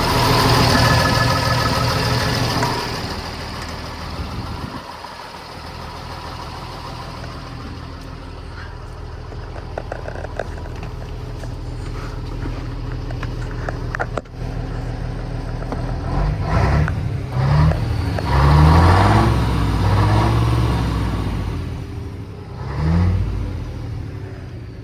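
Scania-Vabis 110 truck's six-cylinder diesel engine running steadily, louder for the first few seconds, then settling. Near the end it is revved in a series of short rising blips, the loudest about two-thirds of the way through.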